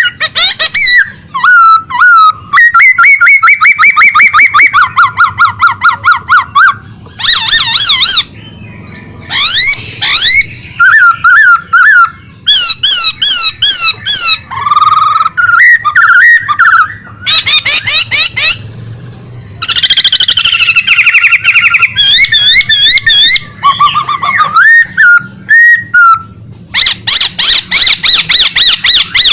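A songbird singing loudly and almost without pause: fast runs of repeated whistled notes, trills and sweeping phrases that change pattern every few seconds, the vigorous nonstop song bird keepers call gacor.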